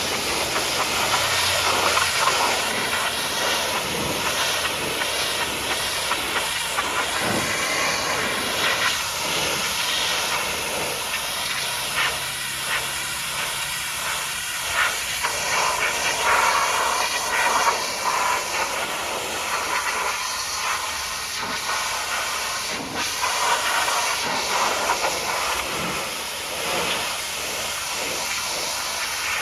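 High-pressure water jet hissing steadily as it sprays mud off a truck, swelling and easing as the spray moves over the surface.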